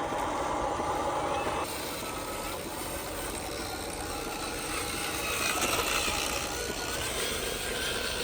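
Small electric motors and gearboxes of a radio-controlled construction model running under load, a whine that wavers up and down in pitch over a noisy background.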